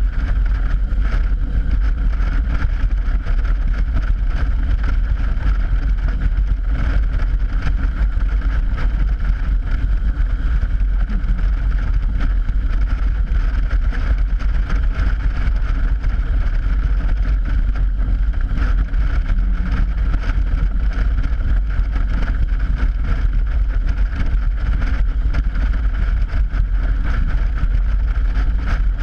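Motorcycle riding at speed over an open steel grate bridge deck: a steady rush of wind on the camera microphone over the engine and the hum of tyres on the grating, unbroken throughout.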